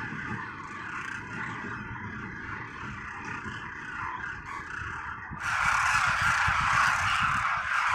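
A large flock of demoiselle cranes calling all at once, a dense continuous din of calls. About five seconds in it turns suddenly louder and brighter.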